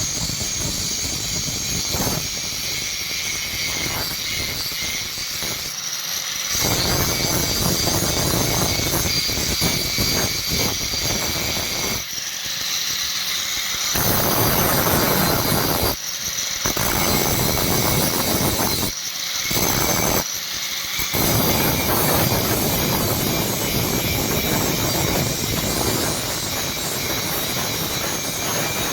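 Electric grinder running, with stretches of louder noise that start and stop abruptly as steel is pressed to it.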